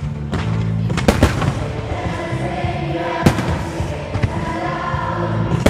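Firework shells and comets bursting with several sharp bangs: a pair about a second in, another about three seconds in and one at the very end. Music with sustained notes runs underneath.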